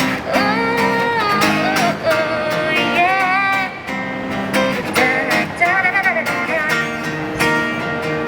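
Acoustic guitar strumming chords, with a voice singing a held, wavering melody over it.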